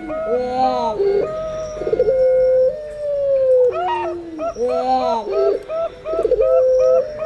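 Several doves cooing over one another: zebra doves (perkutut) giving quick stepped coos, and puter pelung doves giving long drawn coos that slowly fall in pitch. A short buzzy higher call cuts in twice.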